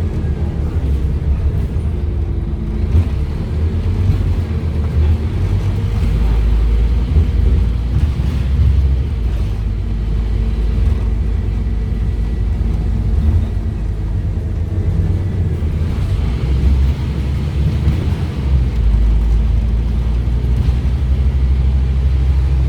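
Scania OmniCity double-decker bus running under way, its Scania DC9 diesel engine giving a continuous low drone heard from on board.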